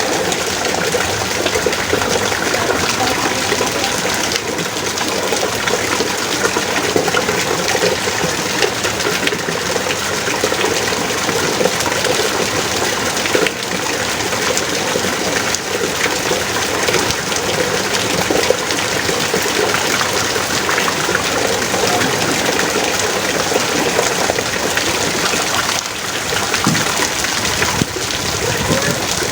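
Heavy rain pouring down steadily, a dense, even rush of water.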